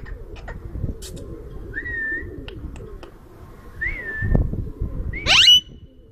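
Indian ringneck parrot (rose-ringed parakeet) giving two short whistles, then a loud, sharp rising screech near the end, with scattered clicks.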